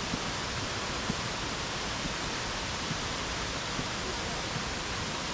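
Steady rushing roar of a tall waterfall, Kaaterskill Falls' cascade, as an even wash of noise with a single faint knock about a second in.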